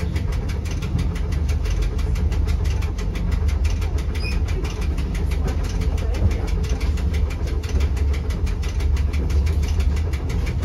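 Rigi rack-railway electric railcar running, heard from inside the driver's cab: a steady low rumble with a fast, even ticking.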